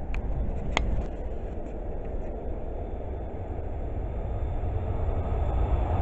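Low steady rumble of an approaching passenger train, growing louder over the last couple of seconds as it nears. Two short sharp clicks come within the first second.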